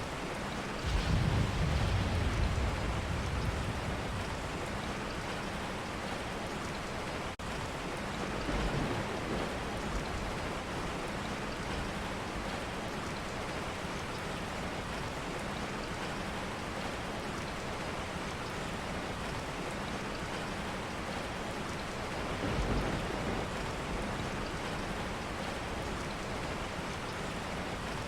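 Steady rain falling, an even hiss, with a few low rumbles: the loudest starts about a second in and lasts a couple of seconds, with weaker ones near 9 seconds and about 23 seconds in.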